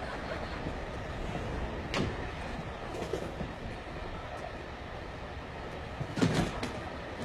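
Train running with a steady rumble, with a sharp knock about two seconds in and a louder clatter of knocks a little after six seconds.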